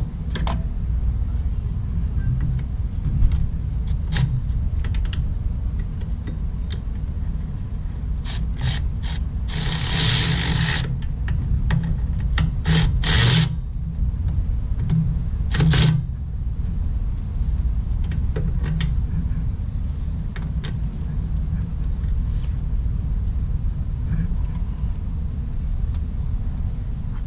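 Mechanical work on a riding mower's transaxle: scattered sharp metallic clicks and a few short bursts of clatter about a third and halfway through, over a steady low rumble.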